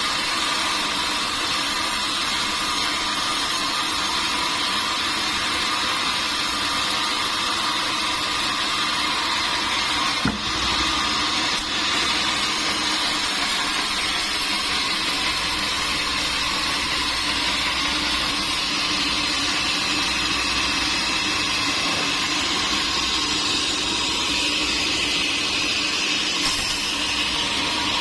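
Steady noise of sawmill machinery running, with a single knock about ten seconds in.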